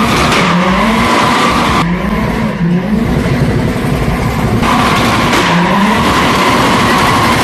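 Drift car sliding, its tyres squealing steadily while the engine revs rise and fall. The sound changes abruptly twice, as between edited clips.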